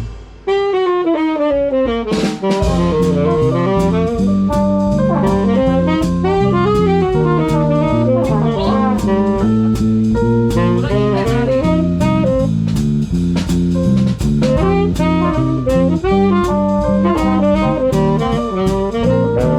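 A swing big band playing jazz: saxophones and brass over a rhythm section with a drum kit keeping a steady beat. The band drops out right at the start, a single line plays a short phrase alone, and the full band comes back in about two and a half seconds in.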